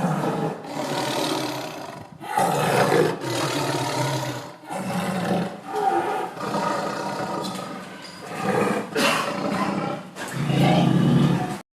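Tiger roaring, a run of about eight or nine roars one after another, cutting off abruptly near the end.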